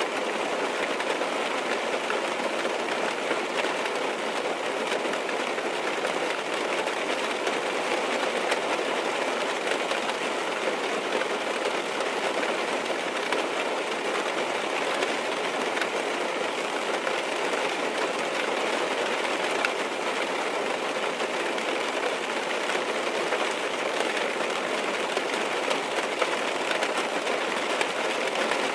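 Steady rain falling on a car's roof and windows, heard from inside the cabin: a dense, even patter of countless small drop hits.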